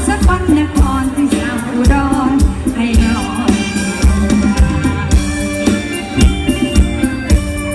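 Mor lam band music with a singer over a steady drum beat.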